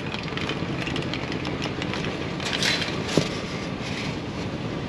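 Truck engine running, a steady rumble, with a brief hiss and a sharp click about halfway through.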